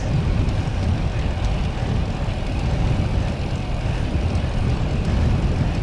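Steady wind rumbling across the microphone while riding a road bicycle into a headwind.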